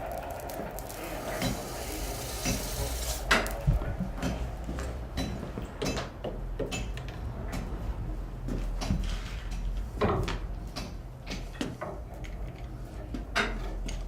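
Irregular metallic clinks and knocks of blacksmith's tools and iron being handled, a dozen or so scattered strikes with no steady hammering rhythm, over a steady low hum.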